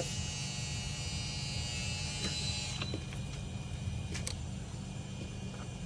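Steady low hum with a high hiss of gas flowing into the freshly brazed refrigerator lines as they are pressurized for a leak check. The hiss fades out about three seconds in, with a few light clicks.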